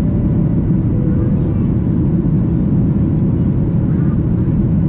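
Steady low-pitched roar of a Boeing 737-800's CFM56-7B turbofans and airflow, heard from inside the passenger cabin during the climb after takeoff.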